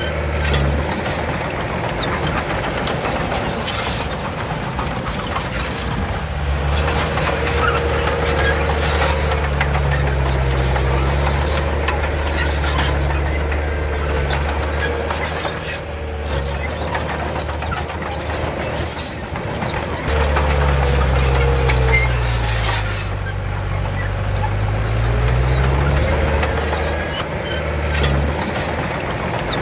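Komatsu D31 crawler bulldozer working: its diesel engine runs under changing load, the pitch sagging and recovering several times, over a continuous high-pitched squeal and clatter from the steel tracks.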